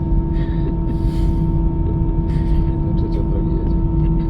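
Airbus A319 jet engines running at a steady level: a low rumble with a steady two-tone hum, and faint voices over it.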